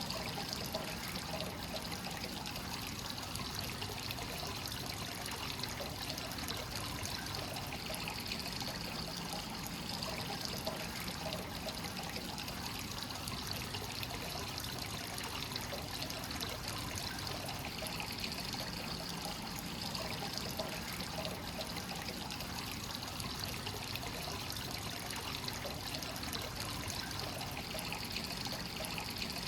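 Hot spring water pouring and trickling steadily into a rock bath, the constant inflow of a free-flowing (kakenagashi) onsen fed fresh from its source.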